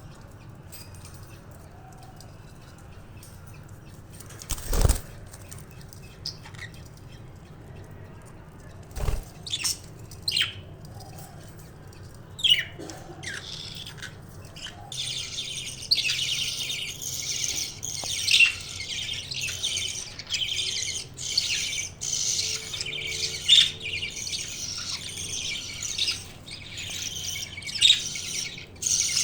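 Budgies in a cage: two sharp knocks and a few short chirps, then from about halfway a continuous, rapid, high buzzing chatter with louder squeaks, typical of budgie chicks begging as the mother feeds them.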